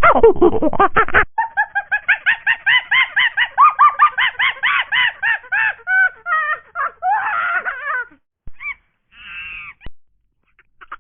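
Birds calling in a fast run of short, rising-and-falling calls, about four a second, from about a second in until about eight seconds, then a few scattered calls.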